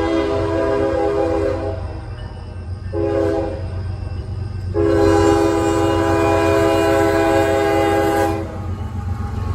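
Locomotive air horn sounding a long blast, a short blast and another long blast, the pattern of a grade-crossing warning, over the steady low rumble of the train.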